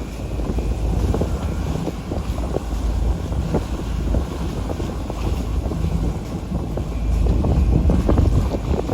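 Wind buffeting the microphone aboard a sailboat under way: a heavy low rumble that gets louder about two thirds of the way in.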